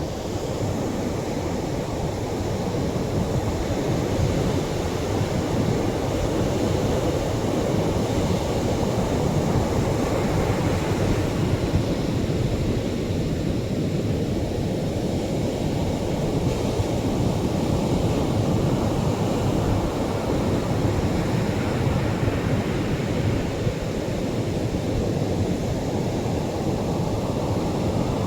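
Atlantic surf breaking on a sandy shore: a continuous low rushing wash of heavier waves, swelling a little now and then without pause.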